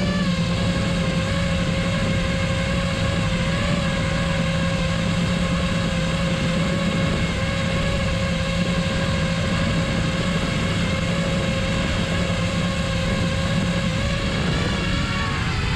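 Parrot Bebop 2 quadcopter's electric motors and propellers running with a steady whirring hum. The pitch wavers slightly and shifts near the end.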